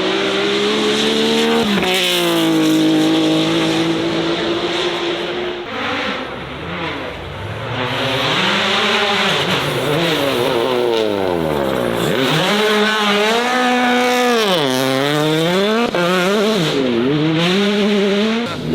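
Racing car engine held at high revs, then revved sharply up and down over and over, with tyres squealing.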